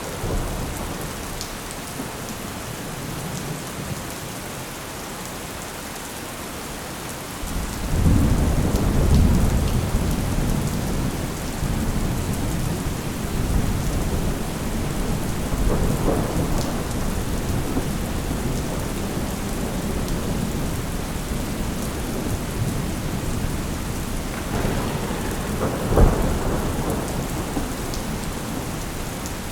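Thunderstorm: steady rain with rolling thunder that breaks in loudly about a quarter of the way through and keeps rumbling, with sharper claps later on.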